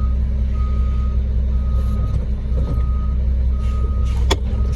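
Concrete mixer truck's reversing alarm beeping about once a second, over the steady rumble of its diesel engine. A single sharp knock sounds near the end.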